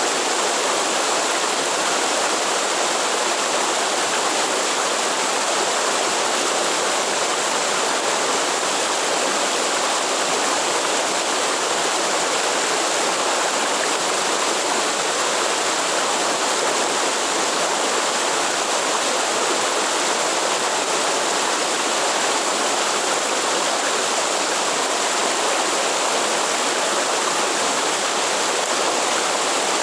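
Waterfall in the Atlantic Forest: a steady, even rush of falling water that does not change.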